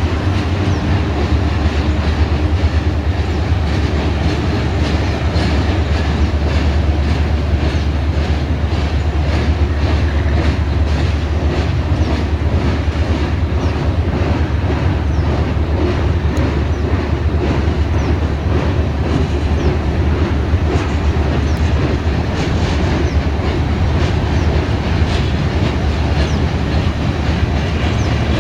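Freight train rolling past, its cars' wheels clicking over the rail joints in a steady clickety-clack over a continuous low rumble. A low steady hum fades out in the first few seconds.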